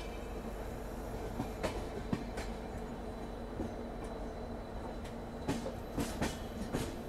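Passenger train coaches rolling slowly over yard tracks, with a steady low rumble and irregular sharp clicks as the wheels cross rail joints, heard from a coach doorway. The clicks come in a cluster about a second and a half in and another cluster near the end.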